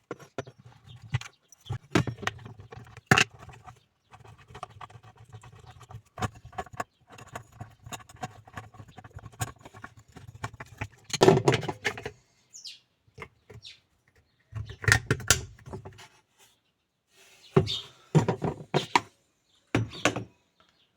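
Irregular clicks, knocks and rattles of hand work on hard parts, with a low hum coming and going underneath.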